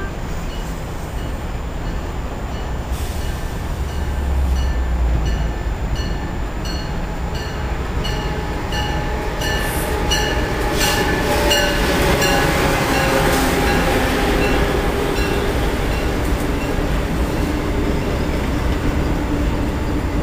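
Amtrak Acela Express high-speed electric trainset approaching and passing at speed: a steady rush of wheels on rail and air that builds as it nears and peaks as the cars go by, with a whine that slowly falls in pitch during the pass.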